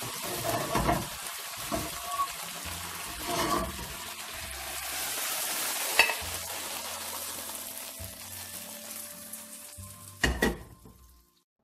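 Chicken wings sizzling in a non-stick wok in soy sauce and Shaoxing wine, a steady sizzle broken by a few knocks and scrapes of a utensil, the loudest near the end, before the sound fades out.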